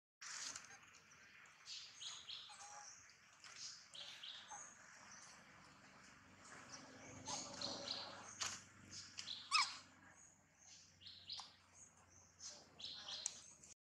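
Wild birds chirping, many short high notes scattered throughout, with one louder gliding call about nine and a half seconds in.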